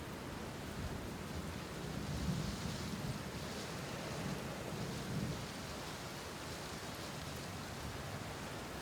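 Steady rain falling, with low rumbles swelling and fading twice, about two and five seconds in.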